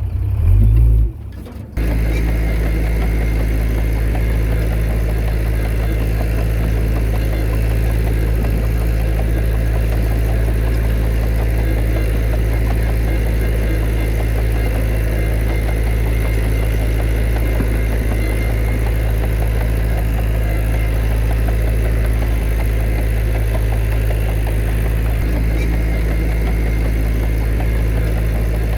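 Heavy diesel engine of earthmoving machinery running steadily, a deep even drone that holds without change. In the first second or two there is a brief louder burst and a short dip before the steady run begins.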